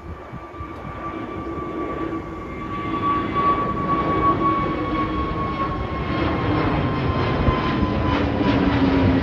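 Departing airliner's engines at takeoff power, growing steadily louder, with a high whine and a lower hum that both slowly fall in pitch over the roar.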